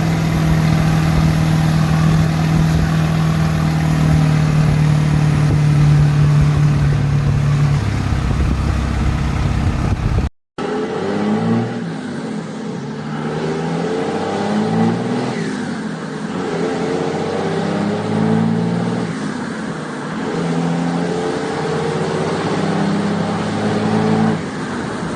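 Turbocharged diesel truck engine running steadily at raised revs with a faint high whine. After a brief break it is revved up and down repeatedly.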